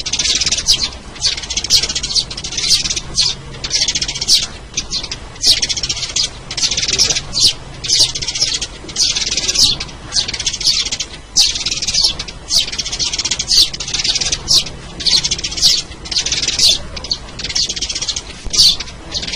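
Sparrows chirping in dense, high-pitched clusters of chatter, one after another about every second, the continuous calling of a sparrow lure recording.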